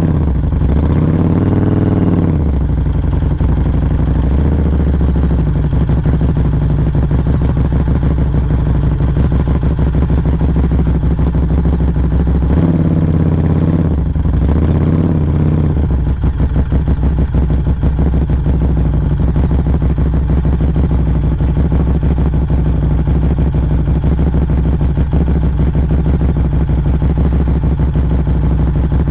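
Exhaust of a 2019 Harley-Davidson Street XG 500's V-twin through a Firebrand Loose Cannon slip-on muffler, heard close to the muffler while riding. The engine note rises and falls with throttle changes about a second in and again about halfway through, and holds steady in between.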